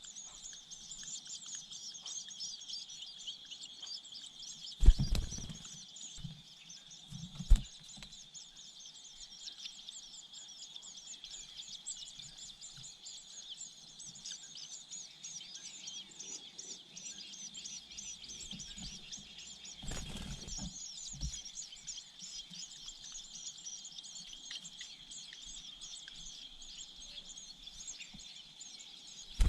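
Continuous rapid, high-pitched bird chirping, with a few short low thumps, the loudest about five seconds in and again about two and a half seconds later.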